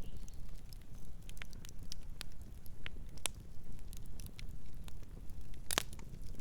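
Campfire crackling: scattered sharp pops and snaps of burning wood over a low steady rumble, with one louder pop near the end.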